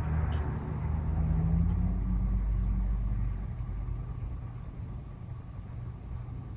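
A motor vehicle's engine rumbling, louder for the first three seconds and then fading to a lower steady rumble, with a single short click about a third of a second in.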